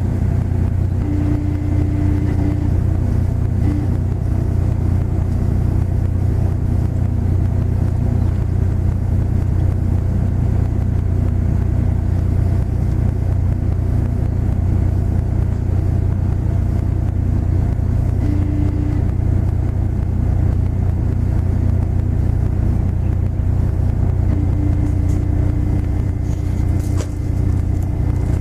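Diesel engine of the double-ended car ferry Dai-jū Kannon running with a steady low drone. A higher hum comes and goes over it: near the start, about two-thirds of the way through, and over the last few seconds.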